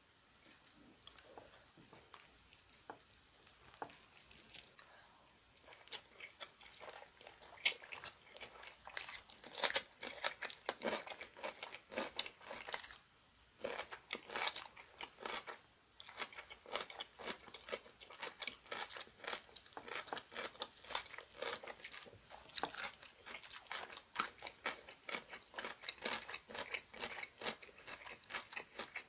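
A person chewing food close to the microphone: rapid wet clicks and crunches of mastication, sparse at first and growing dense and louder from about six seconds in.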